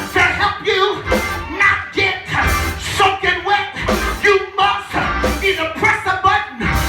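Loud gospel church music with a steady beat: a band with bass and drums playing, with voices singing over it.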